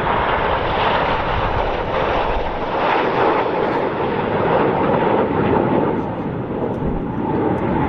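BAE Hawk T1 jet trainers flying a display: a loud, steady jet rush with a thin, even whine running through it.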